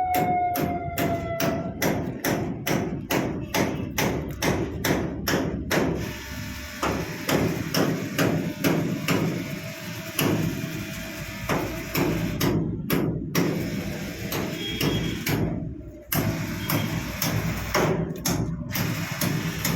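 Rhythmic percussive knocking, about three to four sharp strikes a second, very even for the first six seconds and looser after that. A falling, siren-like tone fades out in the first two seconds.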